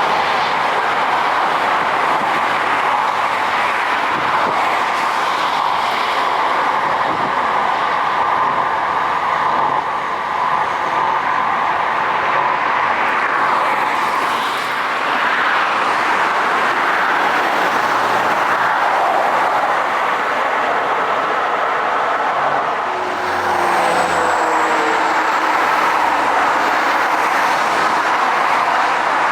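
Jet airliner engines at takeoff power: a loud, steady roar that holds for the whole stretch, with only small dips in level.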